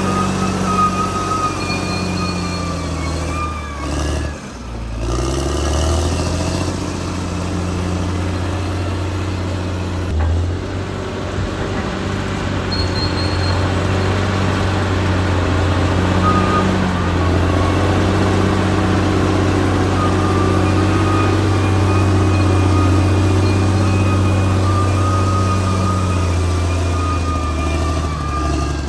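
Caterpillar D6R XL bulldozer's diesel engine running steadily under load, with a thin high whine over the engine note. The engine pitch sags and recovers about four to five seconds in, and dips briefly again about ten seconds in.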